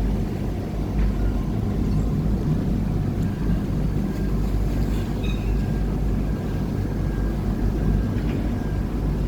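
Steady low drone of a river tourist boat's engine, heard from on board.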